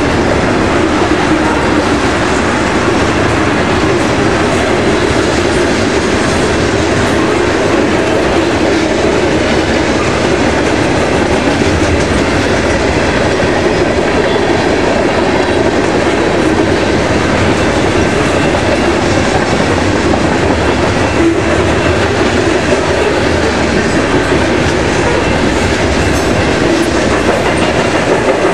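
Freight train cars rolling past: a steady, loud rumble of steel wheels on rail.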